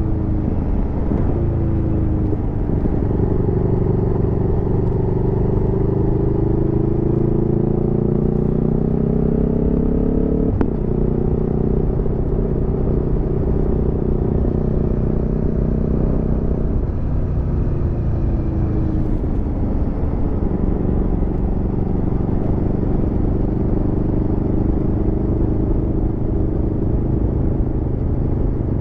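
Aprilia Tuono V4 motorcycle's V4 engine pulling under way. The engine note climbs steadily for several seconds, then drops abruptly about ten seconds in at an upshift. It holds, dips again a little after halfway, and then climbs slowly, over a steady low rumble.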